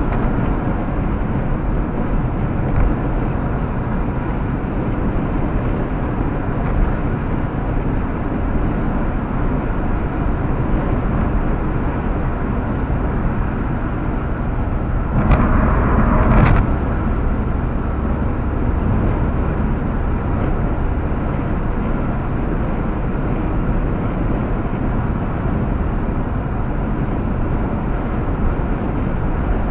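Steady road and engine noise inside a car cruising on a highway. About halfway through, a louder rush lasts a second or so.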